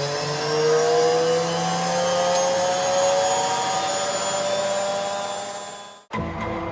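Washing machine motor whining as the drum spins up, its pitch rising steadily. It cuts off abruptly about six seconds in, then the same whine comes back briefly and starts to fade.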